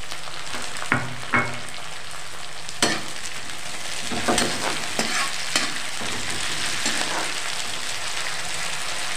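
Freshly added chopped tomatoes sizzling in hot oil with fried onions in a metal kadhai (Indian wok) as they are stirred. A steady frying hiss, with several sharp scrapes and knocks of the stirring utensil against the pan.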